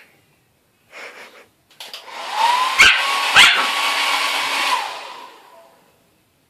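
Handheld hair dryer switched on, its motor whine rising as it spins up, running for about three seconds and then winding down. A dog barks twice at it, sharply, shortly after it starts.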